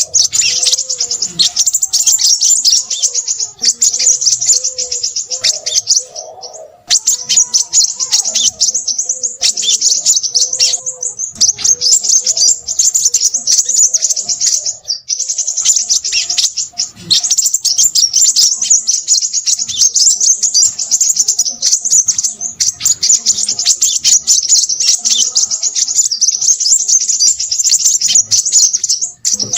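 Crimson sunbird (Aethopyga siparaja) singing a rapid, high-pitched chattering twitter almost without pause, broken only briefly about six and a half and fifteen seconds in.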